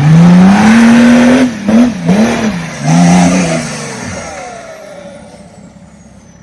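Off-road vehicle engine revving hard: the pitch climbs steeply for about a second and a half, is blipped down and up a few times, then drops away and fades.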